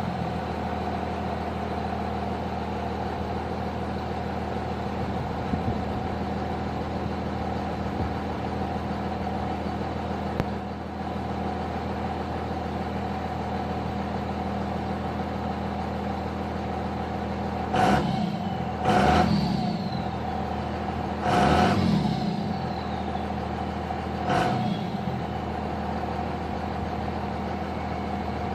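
2nd gen diesel pickup engine idling steadily just after a cold start, then blipped four times in quick revs in the last third. A thin whistle falls away after the two biggest revs.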